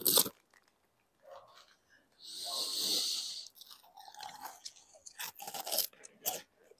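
A person crunching and chewing a crunchy snack right up against a lavalier microphone, ASMR-style. There is a sharp crackle at the start, a hiss about two seconds in, and a run of sharp crunches near the end.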